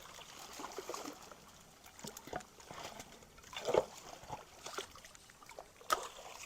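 Creek water sloshing and splashing in irregular bursts as a jam of logs and debris is worked loose, with a heavier splash a little past the middle and a sharp knock near the end.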